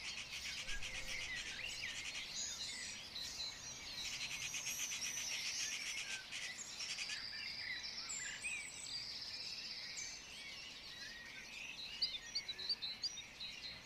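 Several birds chirping and trilling together, with fast trills in the first half and sharper separate chirps near the end.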